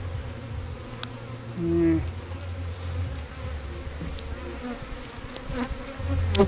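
Honey bees buzzing around an open hive: a steady low hum, with single bees flying close past and a louder buzz about two seconds in. A few light clicks are heard too.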